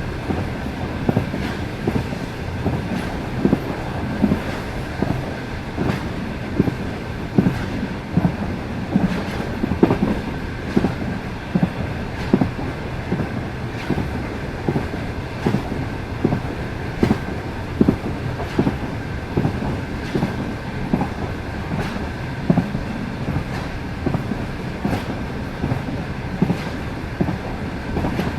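Passenger train cars running at speed, with wheels knocking over the rail joints in repeated clickety-clack over a continuous rumble. A faint steady high tone sits under it.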